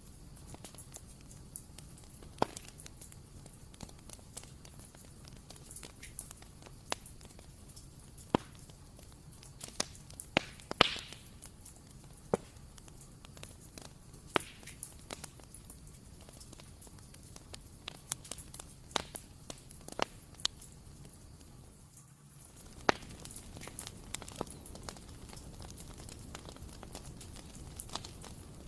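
Bonfire crackling: irregular sharp pops and snaps over a low steady hiss, with one louder pop about eleven seconds in.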